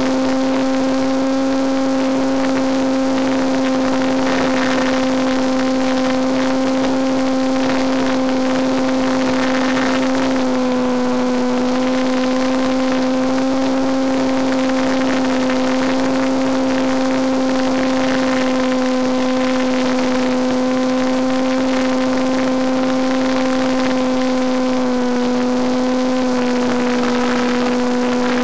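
Electric motor and propeller of a Penguin FPV radio-controlled plane in flight, a steady droning whine with a slight drop in pitch twice, as the throttle eases.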